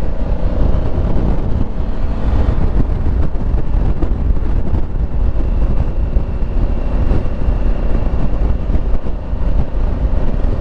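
Honda Africa Twin Adventure Sports riding steadily at road speed: a constant rush of wind and engine noise, heavy in the lows, picked up on a helmet microphone.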